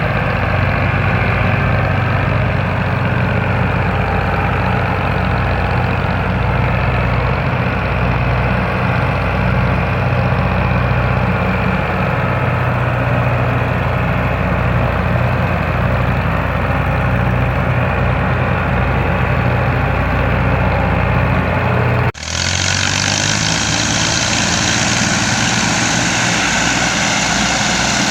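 Massey Ferguson tractor's diesel engine running steadily at a constant speed. About 22 s in, the sound cuts abruptly to another take with more hiss, and the engine keeps running.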